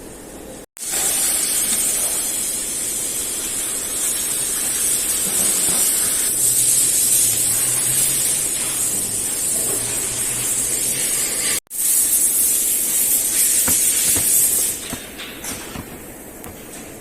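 A pressurised spray hissing loudly and steadily, cut off for an instant twice, then stopping about fifteen seconds in, followed by a few light clicks.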